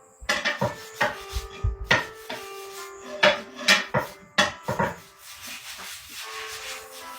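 A quick run of knocks and clatter from hard objects being handled and set down, some of the knocks ringing briefly, easing into quieter rubbing and shuffling near the end.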